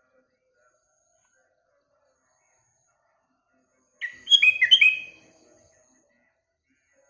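Sooty-headed bulbul (kutilang) giving one short phrase of quick, bright whistled notes about four seconds in, lasting about a second.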